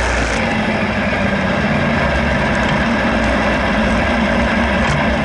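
Motorcycle engine running steadily, with a low even rumble.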